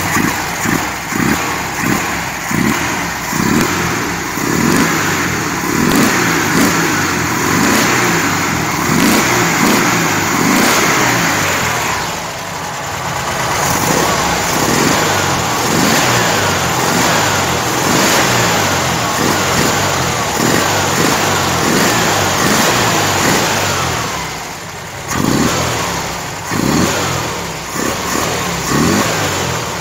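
1972 VW Variant's air-cooled flat-four engine on twin 35 mm Solex carburettors, warmed up and revved in repeated quick throttle blips, about one a second, each dropping straight back to idle. The revs pick up and fall back promptly, a sign of quick, precise throttle response after the carburettors were balanced.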